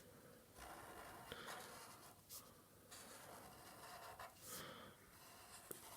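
Faint scratching of a pen drawing on paper, in several strokes, each about a second long, with short pauses between them.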